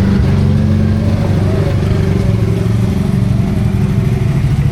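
A motor vehicle's engine running steadily close by, a low even hum whose pitch shifts slightly about halfway through.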